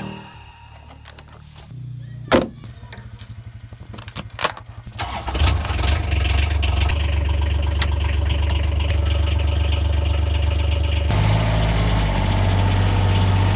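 A few clicks, then a vehicle engine starts about five seconds in and runs steadily, its note changing near the end.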